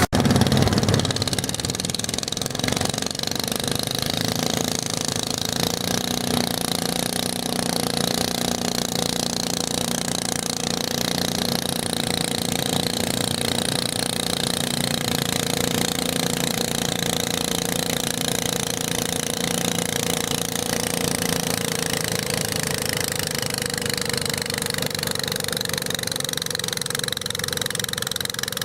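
Garden tractor engine running steadily, louder for about the first second and then settling to an even level.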